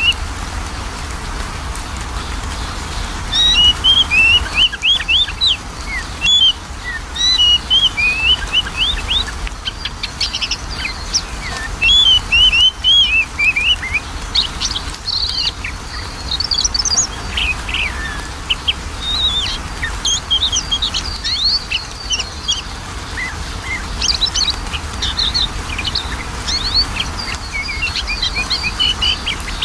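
Oriental magpie-robin (kacer) singing: a long, varied run of quick high whistles and chirps in dense phrases with short pauses, over a faint steady low hum.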